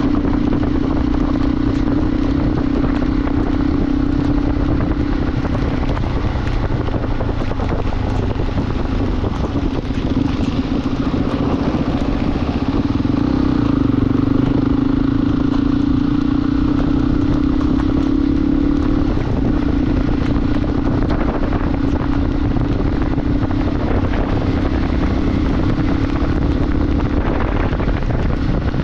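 Motorcycle engine running at a steady riding pace, its note holding nearly level with only slight rises and dips, over a constant rush of noise.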